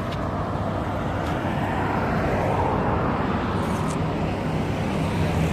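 Boat engine running with a steady low drone under a continuous rushing noise.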